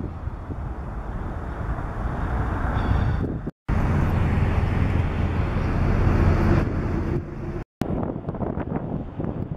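Trains rolling past, heard in three short pieces joined by edits: a freight train's boxcars rumbling by, then passenger trains crossing overpasses, with wind on the microphone. The sound cuts out abruptly twice, a little over a third of the way in and again about three-quarters through.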